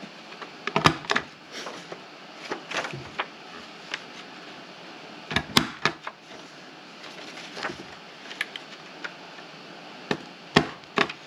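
Plastic envelope punch board's corner rounder snapping as the paper's corners are punched round: a string of sharp, irregular clicks with paper being handled in between.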